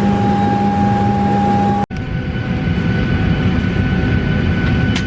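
Steady airliner cabin noise in flight: a constant rush with a low hum and steady tones. It cuts out abruptly about two seconds in and comes back with a different set of tones.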